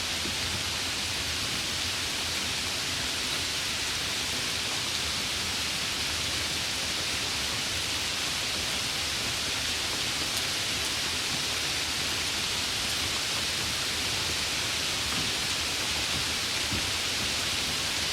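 Heavy rain falling steadily as a dense, even hiss, with a few faint drop ticks.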